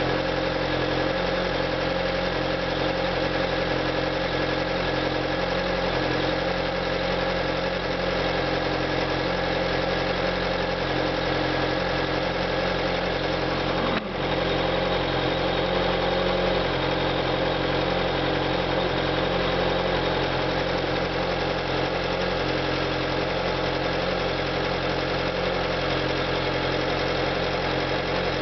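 Fiat Grande Punto's 1.4-litre 16-valve four-cylinder petrol engine idling steadily, with a momentary break in the sound about halfway through.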